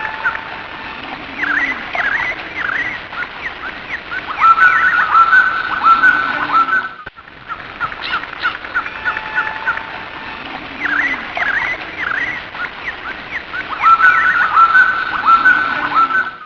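Several birds chirping and calling, with quick rising and falling chirps and runs of short whistled notes. The same stretch of birdsong repeats about every nine and a half seconds, as a looped recording.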